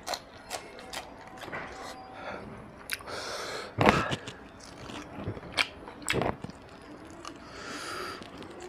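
Close-miked open-mouthed chewing of a handful of mutton curry and rice, with frequent wet lip smacks and clicks. Two louder smacks come about four and six seconds in.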